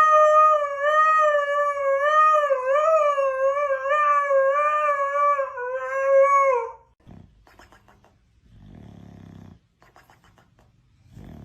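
A dog howling: one long, unbroken howl that wavers up and down in pitch and drops as it ends about seven seconds in, followed by faint low grumbles.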